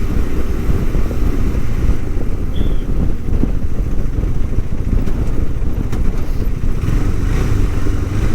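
KTM 390 Adventure single-cylinder motorcycle riding, its engine mixed with heavy wind rumble on the helmet microphone. A steadier engine note comes through near the end.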